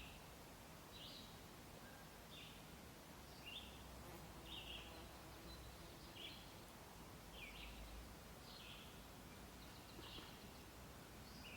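Faint bird chirping outdoors: short, high chirps repeated about once a second, over a light steady background hiss.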